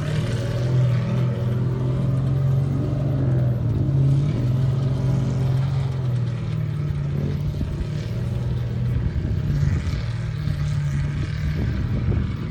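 Ultra4 off-road race car's engine running at a steady low speed, its pitch rising and falling a little, with some light clattering in the second half.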